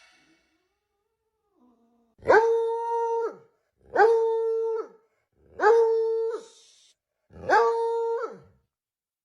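A dog howling in four short, evenly spaced calls, each about a second long and held on one steady pitch, starting about two seconds in.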